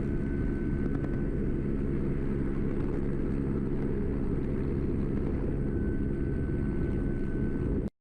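Helicopter running steadily, a low even engine and rotor sound that cuts off abruptly near the end.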